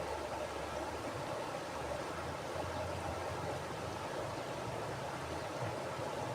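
Mountain river flowing steadily over rocks: an even rushing of water with a low rumble underneath.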